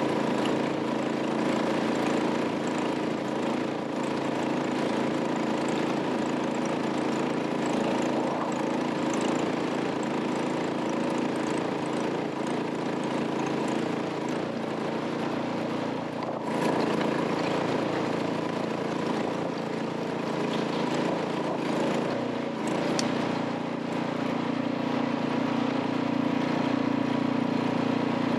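Truck engine running steadily, its note shifting a little more than halfway through and again near the end.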